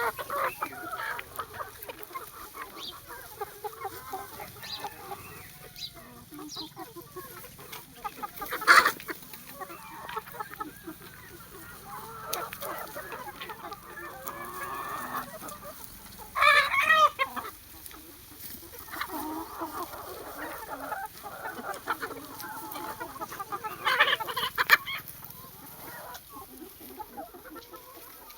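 A flock of chickens clucking and chattering continuously. Three louder, pitched calls stand out, spread through the stretch.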